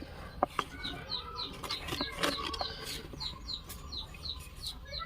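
A small bird chirping over and over in the background, short high falling chirps about three a second, with a few light clicks.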